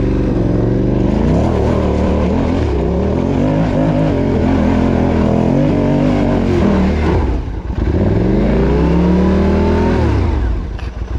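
Yamaha Ténéré 700's parallel-twin engine revving hard, the revs rising and falling with the throttle. The revs dip briefly about two-thirds of the way through, climb again, then fall away near the end.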